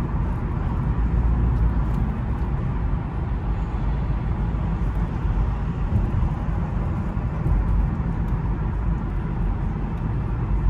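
Infiniti car cruising in drive, heard from inside the cabin: a steady low engine and road rumble with no change in pace, running smoothly.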